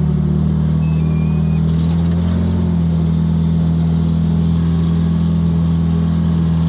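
Detroit Diesel two-stroke engine of a 1960s Michigan tractor running steadily, with a brief faint squeal about a second in and a short rattle near two seconds.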